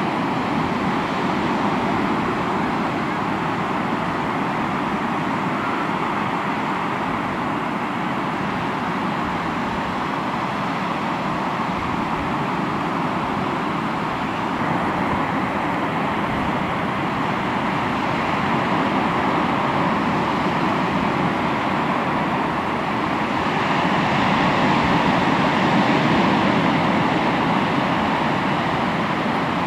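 Sea waves breaking and washing on the shore, a continuous rushing surf that swells louder for a few seconds near the end.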